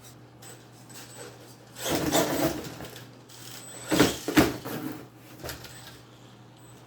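Mini RC monster truck running in short bursts, its electric motor and drivetrain whirring, with two sharp knocks close together about four seconds in.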